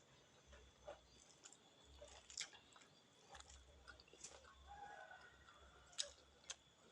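Faint close-up chewing of a mouthful of food, with scattered sharp little clicks, about five that stand out.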